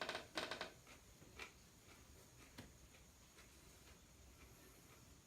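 Crunching bites of a raw serrano chile being chewed: a few short crisp crunches in the first second and a half and one more a little later, then only faint room noise.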